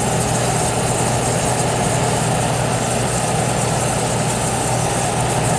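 Vintage Aqua-Dri 25-pint R-12 dehumidifier running: a steady low hum and even fan-like noise, with refrigerant flowing through the coils while the compressor stays very quiet.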